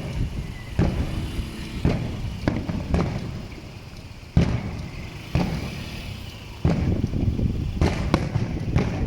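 Aerial fireworks shells bursting: a string of sharp bangs with rumbling echoes, the loudest about halfway through and a cluster near the end.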